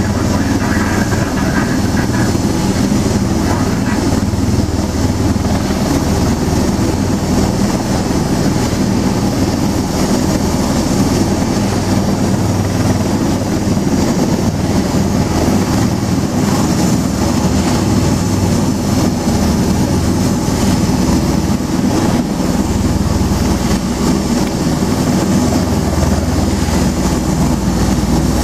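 Bell Boeing V-22 Osprey tiltrotor running, its two turboshaft engines and proprotors making a loud, steady low-pitched sound.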